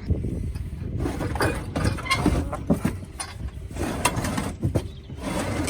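A heavy steel tractor log splitter being manhandled across a trailer bed: irregular scraping, knocks and clunks of metal on metal as it is dragged and shoved.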